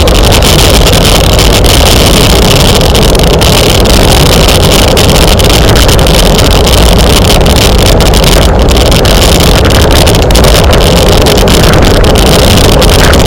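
Wind rushing over the microphone of a camera carried on a bicycle at racing speed: a steady, very loud roar that overloads the recording without a break.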